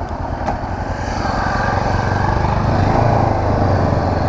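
Honda CB500X's parallel-twin engine running with a steady low drone that grows a little louder over the first two seconds.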